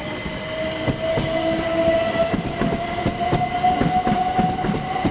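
Class 377 Electrostar electric multiple unit moving through the station. A steady whine from its electric traction drive rises slightly in pitch as it picks up speed, and from about a second in its wheels clatter over the rail joints.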